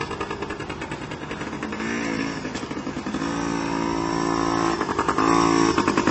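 Yamaha PW50's small two-stroke single-cylinder engine running as the bike is ridden. The throttle opens briefly about two seconds in, for a longer stretch from about three to five seconds, and briefly again near the end, each time lifting the engine to a higher, steady pitch.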